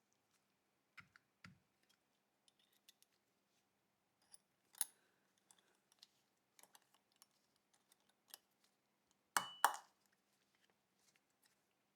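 Scattered small metallic clicks and taps from Walther P38 pistol parts being handled, with two sharp clicks close together about nine seconds in.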